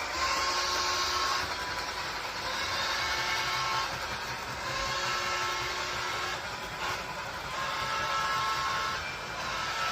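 A train running: a steady mechanical rumble with a motor-like whine whose tones swell and fade every two to three seconds.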